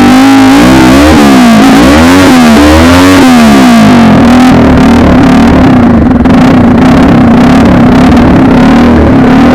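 TVS Apache RTR 200's single-cylinder engine through a full-system aftermarket exhaust, blipped quickly about four times with the revs rising and falling, then held at a steady speed from about four seconds in.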